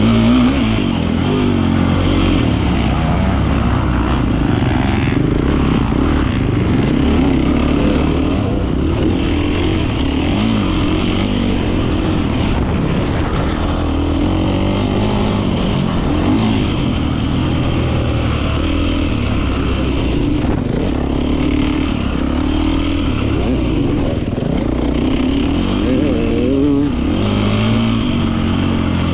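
Beta 450 RX four-stroke single-cylinder motocross engine being ridden, its revs rising and falling again and again as the throttle is worked.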